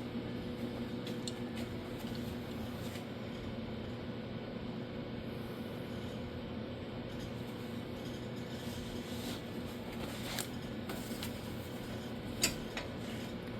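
Steady low hum with a few light knocks of handling or tools about ten seconds in and again near the end.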